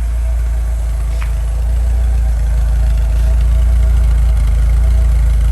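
1980 Fiat Spider's twin-cam four-cylinder engine idling steadily after a cold start. A short high squeak, falling in pitch, cuts in about a second in.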